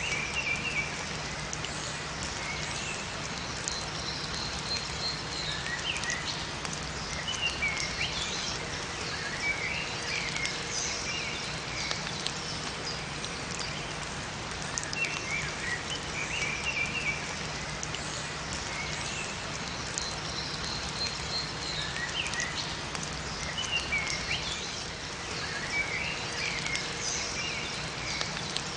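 Steady light rain falling in a forest, with small songbirds chirping in short phrases every few seconds and a faint low hum underneath.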